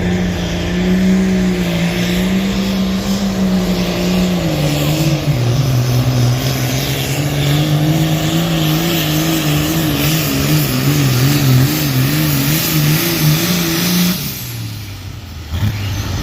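Pulling tractor's engine running hard under load. Its pitch dips about four seconds in and then wobbles up and down about twice a second. Near the end the engine drops off sharply, then picks up again briefly.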